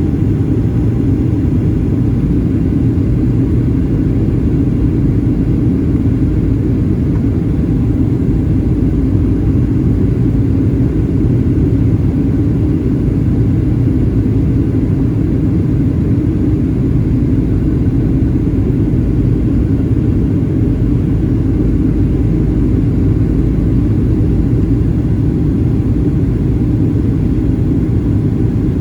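Steady low rumble of a Boeing 737-800 in flight, heard inside the cabin: engine drone and airflow noise, with no sudden events.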